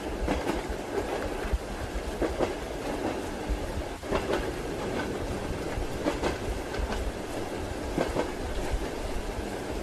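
Train wheels clacking over rail joints, about one knock a second, over the steady low rumble of a railway carriage in motion. A constant hiss of rain runs underneath.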